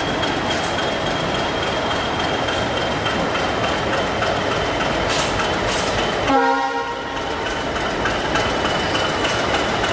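Passenger train coaches rolling past close by, with steady wheel and rail noise. A little past the middle comes a short, single horn blast of well under a second.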